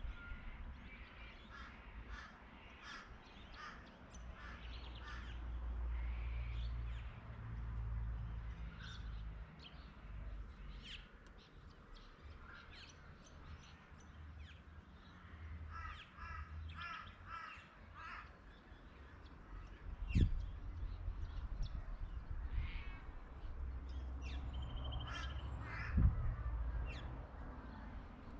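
Birds calling: runs of short, evenly repeated call notes and scattered higher chirps over a low rumble. Two sharp knocks come about 20 and 26 seconds in.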